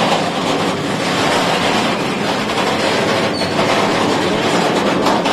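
Freight train of flat wagons rolling past at close range: a steady running noise of steel wheels on the rails.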